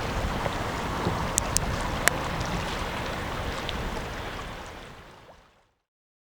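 Steady outdoor riverside wind and water noise with a low rumble and a few sharp clicks, fading out to silence near the end.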